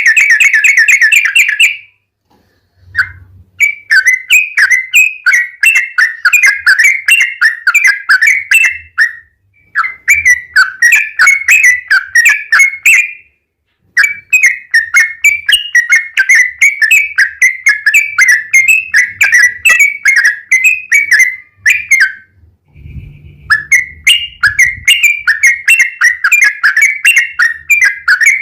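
Yellow-vented bulbul (trucukan) singing a fast run of quick, bubbling notes, in bursts of several seconds broken by short pauses.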